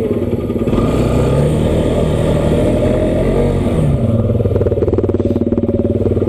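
Motorcycle engine running while riding, getting louder about a second in and stepping up in pitch, then dropping back shortly before the middle and holding steady.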